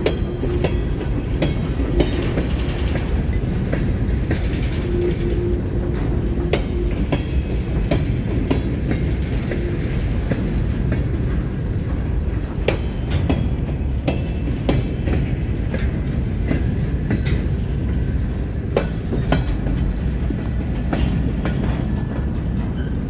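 Freight train of covered hopper cars rolling past close by: a steady low rumble from the wheels on the rails, with irregular clicks and knocks as the wheels cross rail joints.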